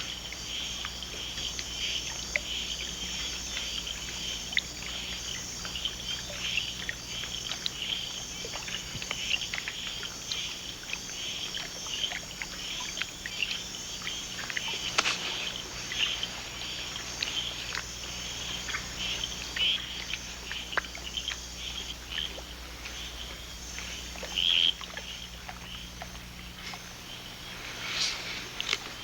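Night chorus of tropical frogs and insects: many short chirps and clicks overlapping densely, with a louder call near the end and a low steady hum underneath.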